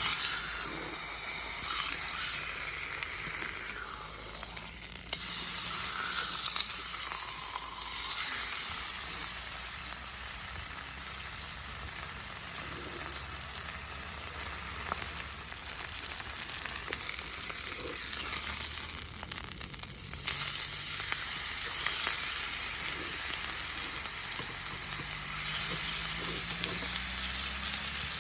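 Food sizzling and frying in a hot pan over a campfire, a steady crackling hiss that swells louder about six seconds in and again about twenty seconds in.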